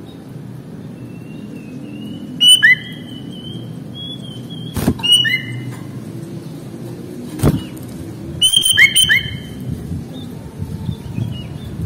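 Sooty-headed bulbul (kutilang) singing in short bursts of sharp whistled notes, three phrases a few seconds apart, over a faint long steady whistle. Two sharp clicks come between the phrases, about five and seven and a half seconds in.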